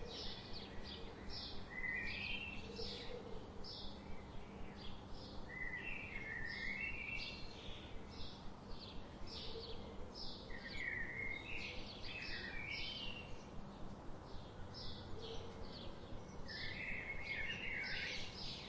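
Several birds chirping: short high chirps repeat about twice a second, and a lower warbling phrase comes every few seconds. A faint steady hum and background noise run underneath.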